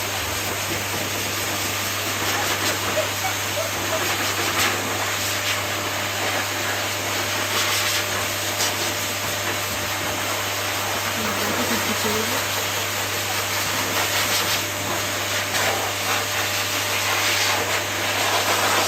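Pet blow dryer running steadily: a constant rush of air over a low motor hum.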